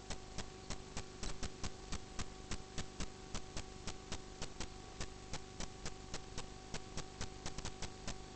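Steady electrical hum with rapid, slightly uneven ticking, about four to five clicks a second.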